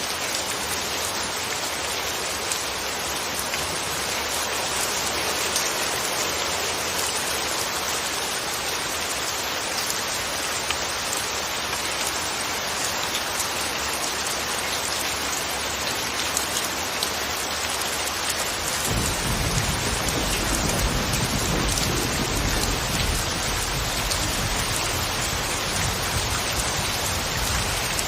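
Steady rain falling. About two-thirds of the way through, a low rumble sets in underneath it and carries on.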